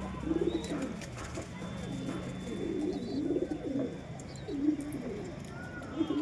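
Domestic pigeons cooing, a string of low coos repeating about once a second.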